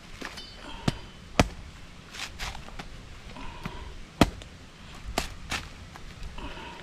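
A series of sharp knocks or chops at uneven intervals, the loudest one about four seconds in.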